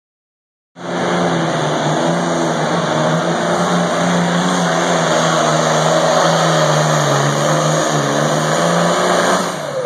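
Engine of a pulling vehicle at a truck and tractor pull, running hard and steady. It starts suddenly under a second in, holds a nearly even pitch and dips slightly about three-quarters of the way through.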